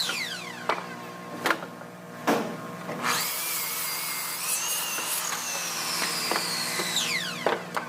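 Handheld power drill running in spells: its motor whine winds down at the start, spins back up about three seconds in, holds, then winds down again near the end, with a few sharp knocks in between.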